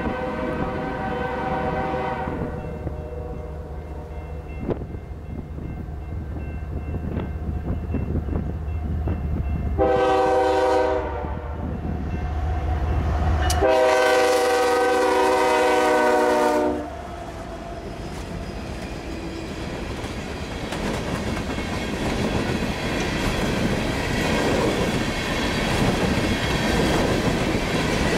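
BNSF diesel freight locomotives sounding a multi-chime air horn three times as they approach and pass, over a low engine rumble. After the locomotives pass, the loaded coal hopper cars rumble and clack steadily over the rail joints.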